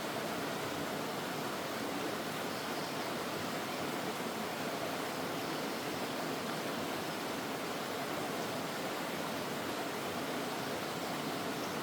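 Mountain stream water rushing and splashing over rocks in a steady, even rush.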